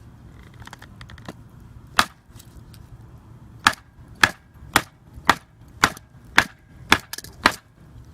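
Blade chopping into hard firewood: one blow about two seconds in, then a steady run of about eight sharp blows, roughly two a second.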